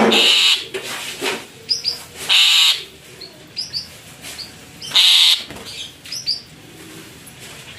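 Birds calling: short high rising chirps with loud harsh squawks about every two and a half seconds.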